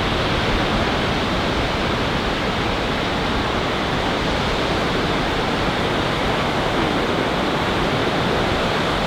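Ocean surf breaking on a beach, heard as a steady, even rushing noise.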